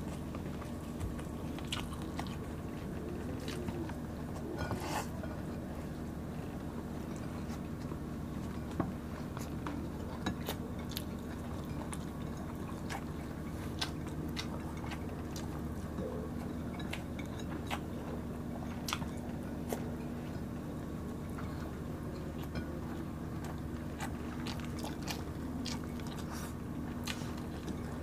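Close-up chewing and biting as fried dried milkfish and rice are eaten by hand, with scattered short sharp clicks and crunches over a steady low hum.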